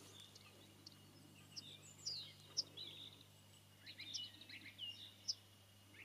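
Small birds chirping faintly: scattered short calls and quick falling whistles, several clusters spread over a few seconds, over a faint low steady hum.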